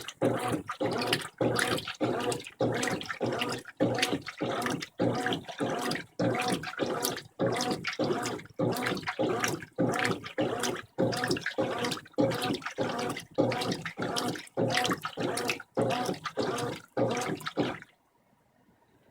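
Brastemp 15 kg washing machine agitating its load in the rinse water, a rhythmic sloshing of about two strokes a second as the agitator swings back and forth. It cuts off suddenly about a second before the end.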